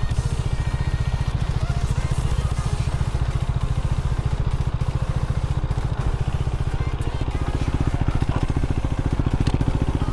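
KTM Duke 390's single-cylinder engine running steadily at low revs, an even, rapid low pulse with no revving.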